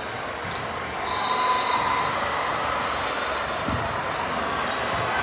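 Indoor gym ambience during a volleyball match: a steady murmur of the hall with short squeaky tones, and a ball thud about three and a half seconds in.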